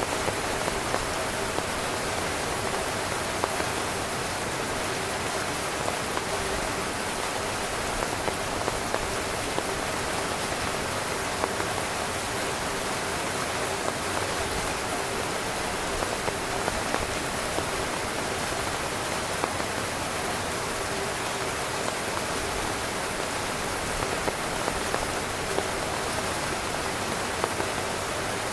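Heavy rain drumming steadily on a tent's fabric, a dense hiss with many individual drop impacts ticking through it.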